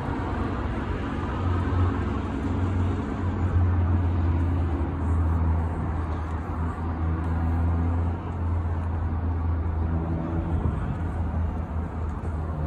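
A motor vehicle's engine running at a steady idle: an even, low hum.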